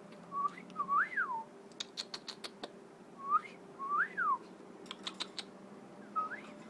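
Cockatiel whistling three short phrases, each a brief steady note followed by a quick rising-and-falling whistle. Between the phrases come clusters of sharp taps from a knife cutting strawberries on a chopping board.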